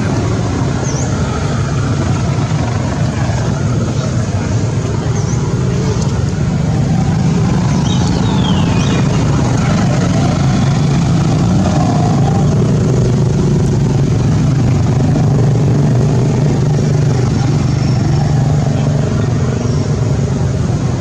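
Steady low engine-like drone, as of a running vehicle, with a few brief high chirps over it.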